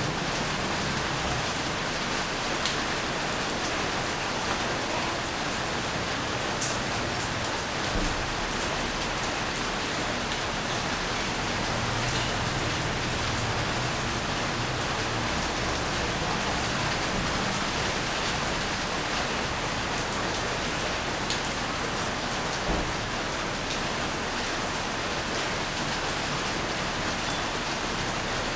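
Steady rain falling, an even hiss with now and then a single louder drop and a couple of soft low thuds.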